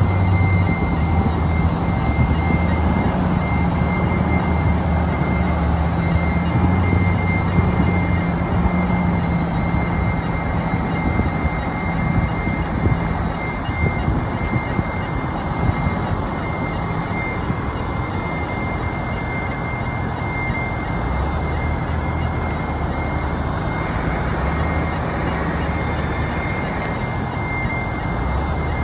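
Heavy diesel earthmoving machinery working, most likely the bulldozer's engine. It runs under heavier load for the first several seconds, eases off, then picks up again about 21 seconds in. A steady high-pitched tone sounds over it throughout.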